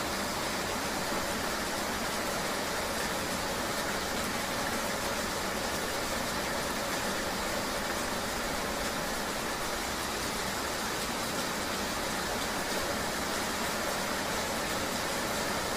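Steady ambience of riding in the rain: an even rain-and-road hiss with a low vehicle hum beneath it, unchanging throughout.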